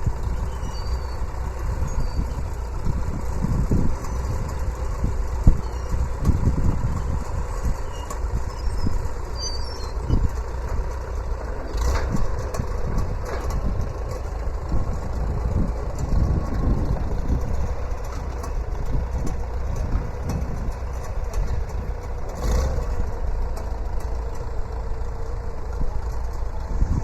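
An engine idling with a steady, uneven low rumble. A couple of brief knocks come about twelve seconds in and again a little after twenty seconds.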